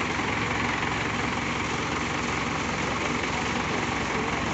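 An engine running steadily at constant speed, with no revving.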